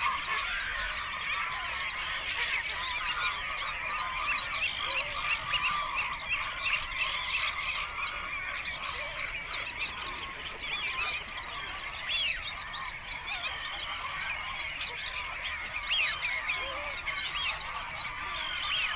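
A large flock of birds calling together: a dense, unbroken chorus of many short overlapping calls.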